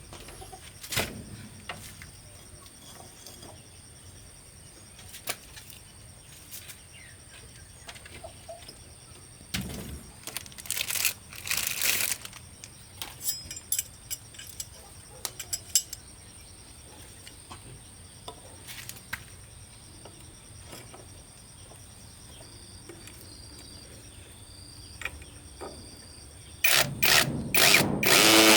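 Scattered clicks, knocks and brief clattering of hand work on building materials, then a loud power tool, likely a drill, starting up about two seconds before the end.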